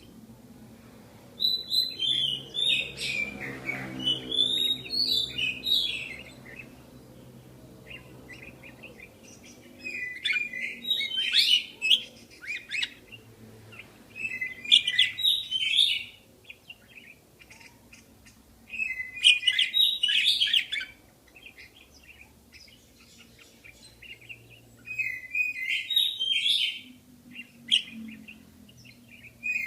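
Budgerigars chirping in several bursts of rapid high chirps, each lasting a few seconds, with quieter gaps between.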